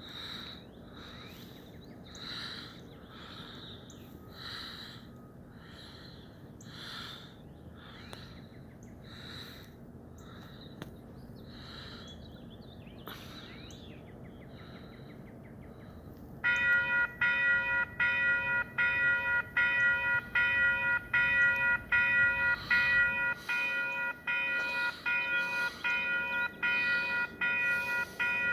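A bird calls over and over, about once a second. About sixteen seconds in, a railroad crossing bell starts ringing loudly in even strikes, about one and a half a second, warning of an approaching train.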